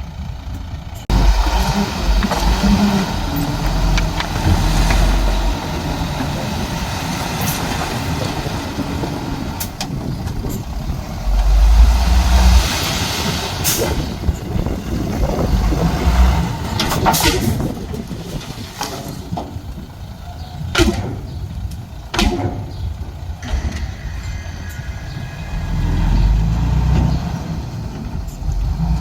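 Komatsu D31P crawler bulldozer and dump truck working: diesel engines running and rising and falling under load. Sharp metallic clanks and brief squeals come through, most of them in the second half.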